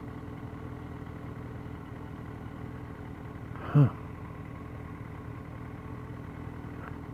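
Motorcycle engine idling steadily, with a brief voice sound about four seconds in.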